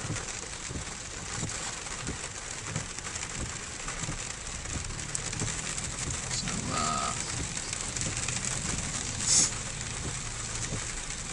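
Rain and road noise inside a pickup truck's cab on a wet highway: a steady hiss with a low rumble. A short tone sounds about seven seconds in, and a brief louder rush of noise comes near the end.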